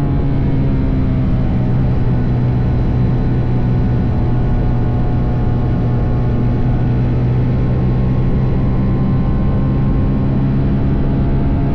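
TVS Apache RR310's single-cylinder engine running on its stock exhaust at a steady cruise, under a constant rush of wind and road noise. The engine note eases slightly at first and rises a little near the end.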